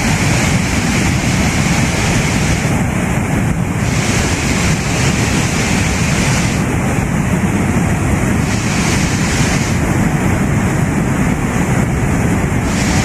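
Loud, steady rushing of a mountain river in flood.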